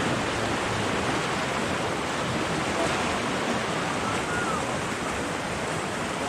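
Whitewater of a river rapid rushing steadily around a paddle raft.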